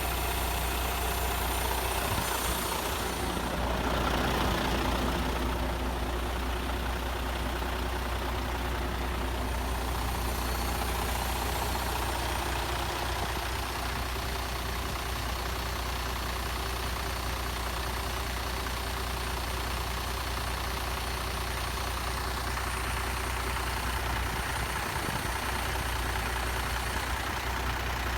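Scania truck's diesel engine idling steadily, with a briefly louder stretch about four seconds in.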